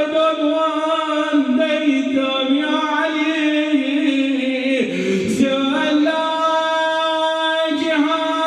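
A man chanting an unaccompanied Arabic nai, a mournful elegy, in long held, melismatic notes.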